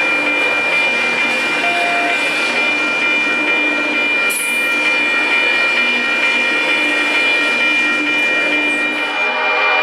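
Double-stack intermodal train's well cars rolling past on steel rails, a steady rumble of wheels with a high steady ringing over it. About nine seconds in it gives way abruptly to a locomotive horn chord.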